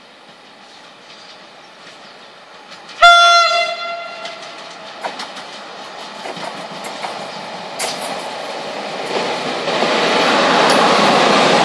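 Electric locomotive sounds one short horn blast about three seconds in. Then the approaching train's running noise builds, with clicks of the wheels over the rails, growing loudest near the end as it draws close.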